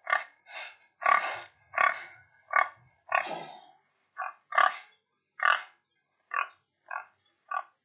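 Pig oinking and grunting: a quick series of about a dozen short calls, each under half a second, a little softer toward the end.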